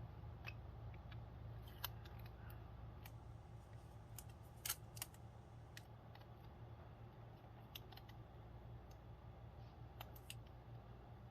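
Small scissors giving a few faint, scattered snips while trimming around the edge of a stamped nail-art decal, over a steady low hum.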